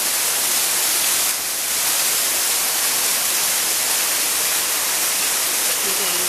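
Two-tier waterfall: a steady, loud rush of falling water.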